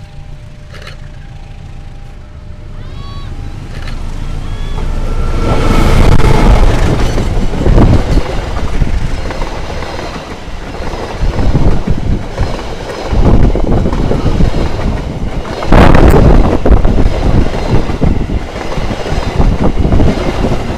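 Diesel-hauled passenger train approaching and then rolling past close by at speed, wheels running over the rails. The sound builds over the first few seconds, then stays loud with deep rumble and repeated surges as the coaches go by.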